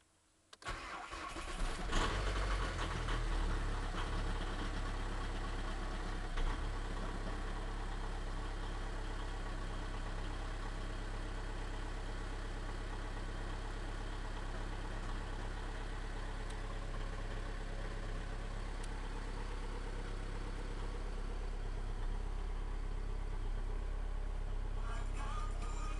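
Diesel engine cold-starting at −18 °C on summer diesel fuel: it catches about half a second in, runs unevenly for the first few seconds, then settles into a steady idle.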